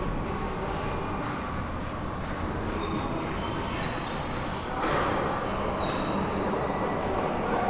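Rail vehicle's steel wheels rolling on track, with short high squeals at several pitches over a steady rumble; it grows louder about five seconds in.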